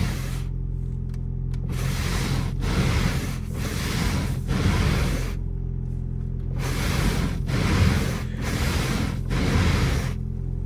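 Windshield wipers on a 2004 Toyota Prius sweeping back and forth across the windshield, a swishing scrape that comes in stretches of a few seconds, over a steady low hum from the running car.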